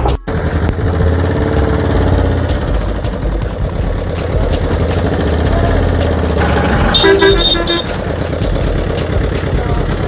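A vehicle engine running steadily, with a horn sounding in a quick run of short toots about seven seconds in.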